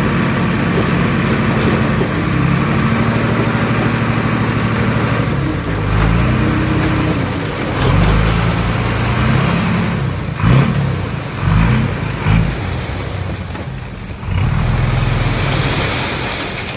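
Heavy diesel engine of earthmoving machinery running steadily, then revving up and down again and again from about a third of the way in as it works under load.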